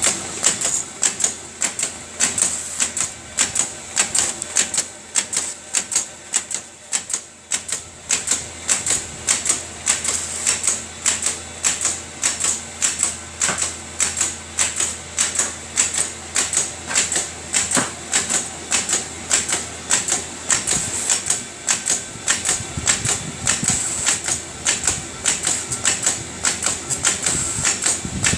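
Automatic envelope tape-applying machine running, clacking rhythmically at about two to three strokes a second over a steady motor hum.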